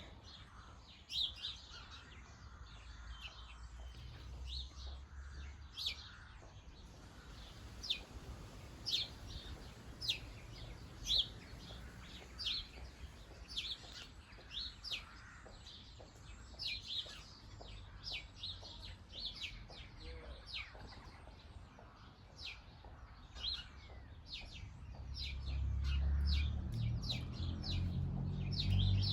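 Small garden birds giving short, sharp chirps, scattered irregularly and coming more often toward the end. A low rumble swells up over the last few seconds.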